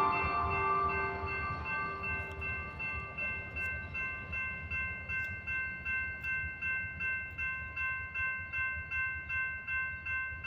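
Train rumbling past a grade crossing, with the crossing bell ringing about twice a second. A train horn's chord dies away in the first few seconds.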